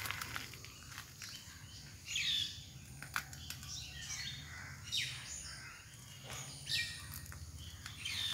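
Bird calls: short chirps that sweep down in pitch, one every second or two, with a few light clicks in between.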